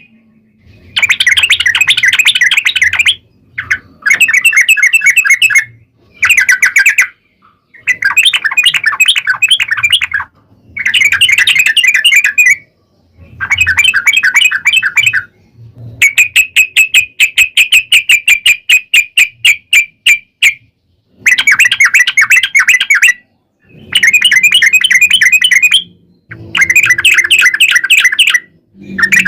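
Yellow-vented bulbul (trucuk) singing in fast chattering phrases of about two seconds each, separated by short pauses; one phrase near the middle is a long, even, rapid trill.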